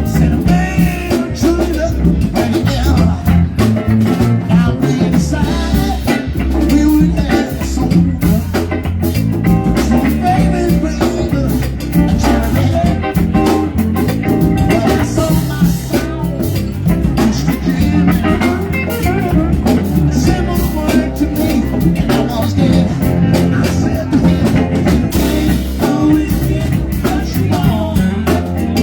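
Live band music: electric guitar, bass and drum kit playing a steady groove.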